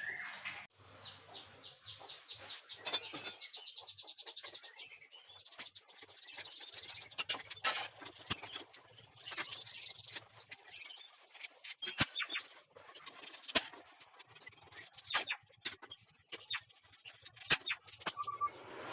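Birds chirping, with scattered sharp clicks and knocks. A quick run of ticks comes about a second in.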